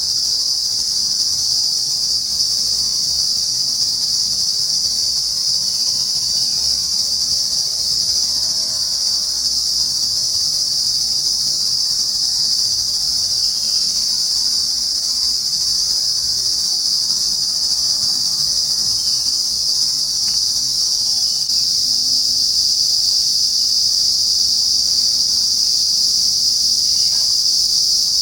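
Daytime chorus of insects in trees: a steady, unbroken, high-pitched buzzing drone.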